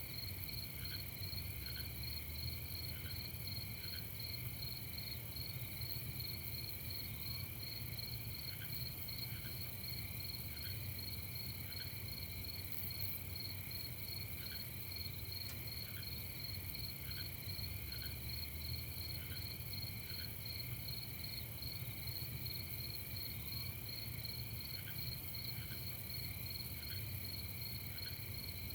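Night insect chorus of crickets chirping steadily in several high pitches, one with a fast even pulse. Short, softer chirps come in small groups every second or two at a lower pitch, over a low steady rumble.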